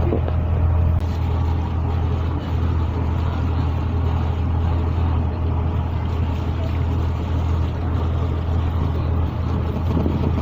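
Passenger boat's engine running steadily under way, a constant low drone heard from on board.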